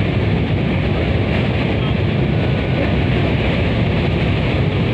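Train running across a railway bridge: a steady, loud rumble with wind buffeting the microphone.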